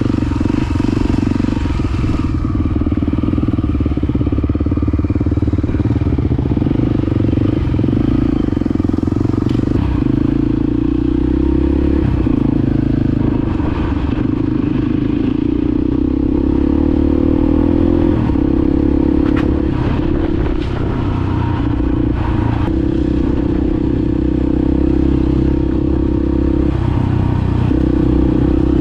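Honda XR250 Baja single-cylinder four-stroke dirt bike engine running steadily while being ridden, its pitch shifting a little with the throttle. Occasional clicks and rattles are heard over it.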